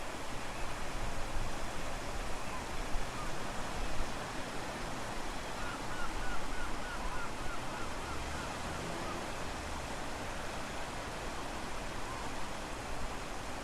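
Strong wind and surf at the shore: a steady rushing noise with a low wind rumble on the microphone and a few louder gusts in the first few seconds. About six seconds in comes a quick run of about ten short high chirps.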